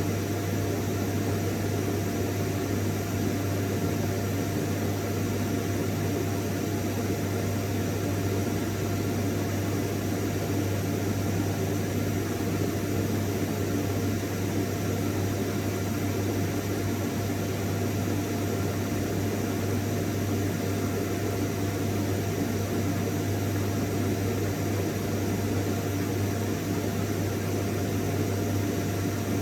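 Vacuum cleaner running steadily: a continuous even whir over a low hum, with a faint steady higher whine.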